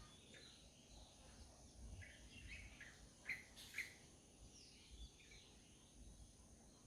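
Faint bird chirps: a run of short high notes starting about two seconds in, the two loudest about half a second apart near the middle.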